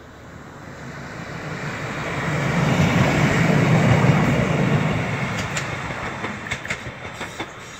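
Single-car Class 153 diesel railcar passing close by. Its running noise swells to a peak about three to four seconds in and fades as it moves away, with a run of sharp wheel clicks on the track near the end.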